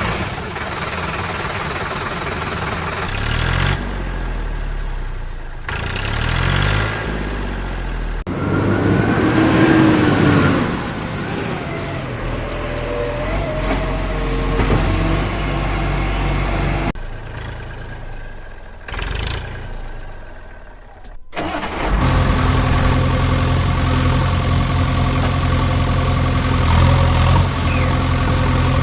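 Vehicle engines running in several abruptly spliced segments. One segment revs up and down a few seconds in, and a steady heavy engine run follows the last cut.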